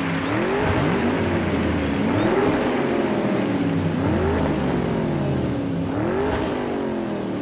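Racing car engines revving over and over, several at once, each rev rising and falling in pitch about every one and a half to two seconds.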